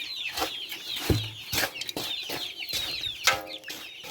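Upgraded native chickens clucking while chicks keep up a chorus of high, falling peeps, with one louder call about three seconds in. Scattered short knocks and rustles come from the feed mix being stirred in a basin.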